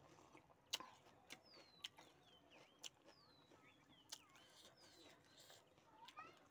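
Faint birdsong of short falling chirps, repeated every second or so, with a few sharp clicks from people eating.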